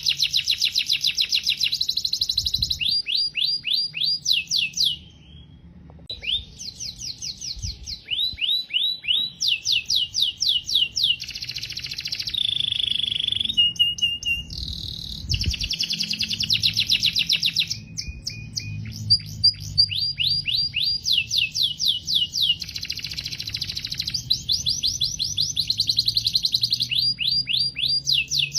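Domestic canary singing a long, continuous song of rapid repeated trills, with a few held whistled notes midway and a short pause about five seconds in.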